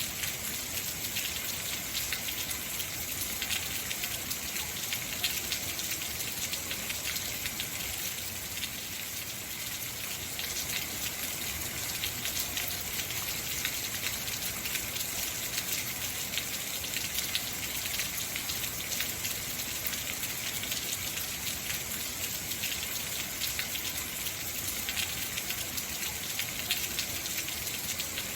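Heavy rain falling steadily, a dense patter of drops with many individual drop ticks.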